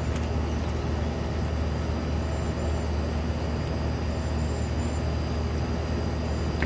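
Steady low drone with a hiss over it, unchanging throughout, like an idling engine or constant road noise.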